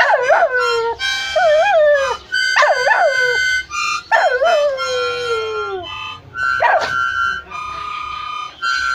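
A pet dog howling along to music, several wavering howls that slide downward, one long falling howl about halfway through, taking turns with held steady notes and chords from the music.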